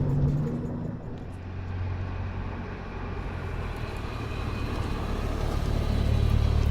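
Car engine and exhaust rumble: one car moves away and fades over the first second, then another comes closer and grows steadily louder toward the end.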